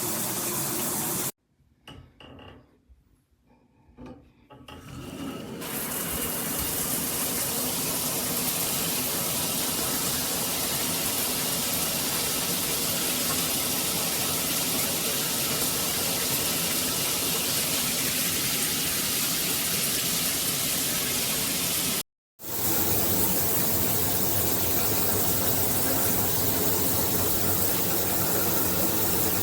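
Shower head spraying water in a steady, even hiss. The spray stops abruptly about a second in, leaving a few seconds of near quiet with faint small sounds, then builds back up over a second or two; there is a very short break about twenty-two seconds in.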